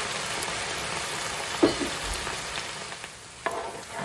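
Zucchini and onion sizzling in a skillet as added white wine cooks off, a steady hiss that thins out near the end. A spoon knocks against the pan twice while stirring the vegetables.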